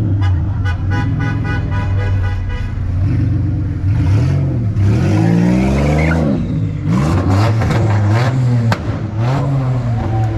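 Car engine revved hard in repeated bursts, its pitch climbing and dropping several times over the second half, with sharp pops in between. A horn sounds in quick repeated honks during the first couple of seconds.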